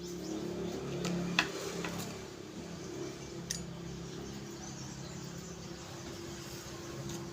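A few sharp clicks and taps of small gas-stove ignition parts being handled and fitted, over a steady low hum.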